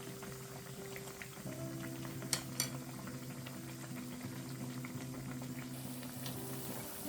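Glutinous rice twisted doughnuts deep-frying in hot oil, with a steady fine crackle of bubbling oil. Two sharp clicks come a little over two seconds in.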